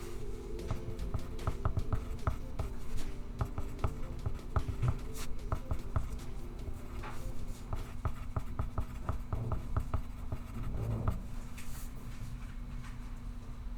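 Pencil scratching on paper in a quick run of short strokes, thinning out about three-quarters of the way through.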